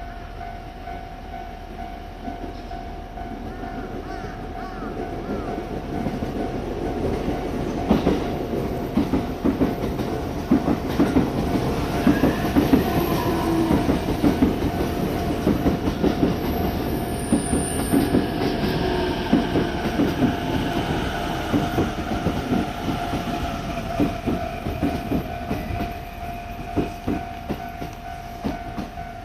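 KiYa E193 diesel track-inspection train running at a station platform. The sound grows louder about six seconds in, with a dense run of wheel clicks over the rail and a brief wheel squeal.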